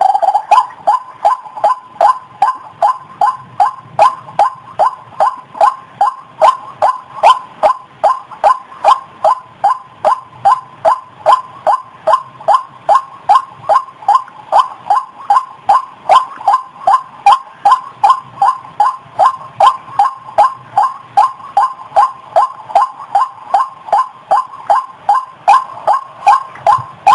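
White-breasted waterhen (ruak-ruak) calling: a long, steady series of short repeated notes, about two to three a second.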